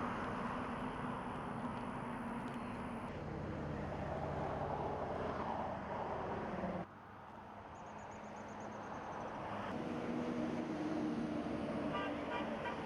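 Vehicle engines running with road noise, as from trucks passing, broken by abrupt cuts about three seconds in and again near the middle.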